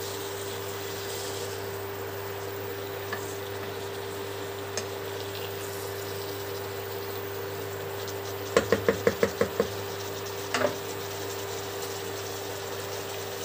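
Shredded cabbage and tomatoes cooking in a pot: a low steady sizzle over a steady hum while a spatula stirs and turns them. A bit past the middle the spatula knocks quickly against the pot about seven times, then once more about a second later.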